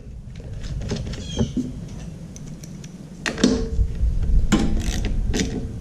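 Scattered clicks and knocks of tools and small metal parts being handled, with a couple of brief clanks about three and a half and five seconds in, over a low steady rumble.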